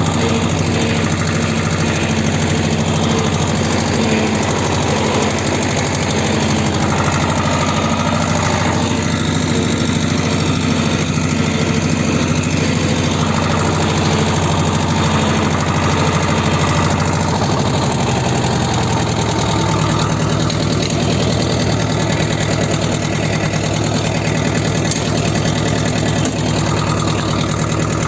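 T-25 tractor's two-cylinder air-cooled diesel idling steadily, warming up after a cold start. Its note shifts slightly about two-thirds of the way through.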